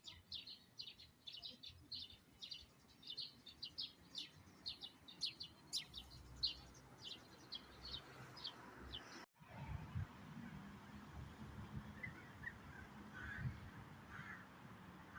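Small songbirds chirping in quick succession, several short high chirps a second. About nine seconds in the sound cuts out abruptly and gives way to a low rumble with fainter, lower bird calls.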